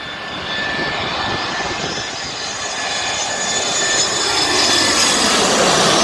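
Jet airliner passing low overhead: a high engine whine over a rushing roar that grows steadily louder and peaks near the end.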